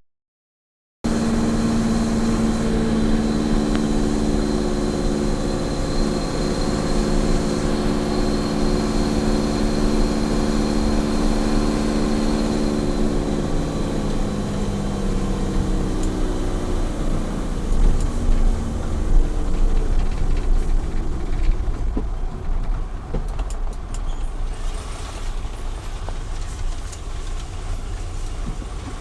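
Small truck's engine running steadily on the highway over road and wind noise. About halfway through, the engine note drops slightly and fades, leaving mostly low road rumble.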